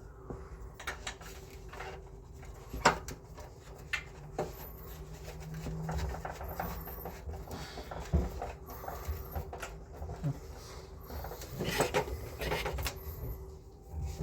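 Scattered clicks, knocks and light rattles of hands and tools working on a split air conditioner's indoor unit, over a faint steady hum. The sharpest knock comes about three seconds in, and another about eight seconds in.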